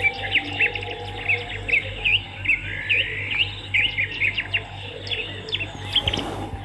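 Swiftlets twittering: many short, rapid chirps overlapping continuously, over a steady low electrical hum. A brief rustle of noise near the end.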